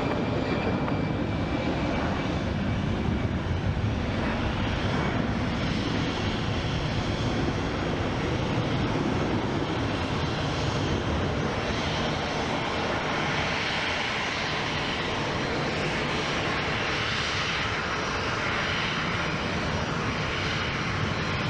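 Airliner jet engines running: a steady, even noise that grows brighter and hissier from about twelve seconds in.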